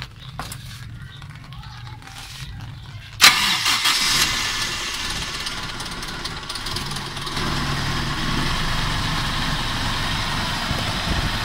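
Toyota 5K four-cylinder engine being started: about three seconds in it fires with a sudden loud burst and then runs steadily, getting a little louder later on. The engine is being test-run on a newly fitted fuel pump.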